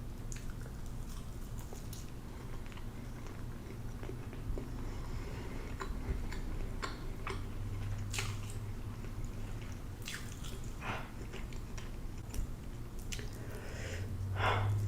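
Close-up eating sounds: a person chewing a mouthful of food, with many short wet mouth clicks, over a low steady hum.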